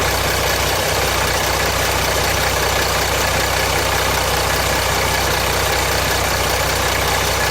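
Mercedes OM642 3.0 V6 diesel in a 2007 Jeep Grand Cherokee 3.0 CRD idling steadily. The engine has a rattle and loses oil pressure at idle, which the owner puts down to timing chain guides breaking up and perhaps a blocked oil pickup.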